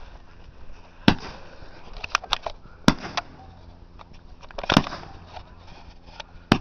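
Ground-set consumer firework going off: sharp bangs at irregular intervals, a quick run of cracks about two seconds in and the loudest bang near five seconds.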